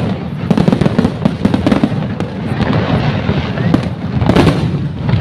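Aerial fireworks display: a dense, continuous crackle of bursting shells and crackling effects, with a louder burst about four seconds in.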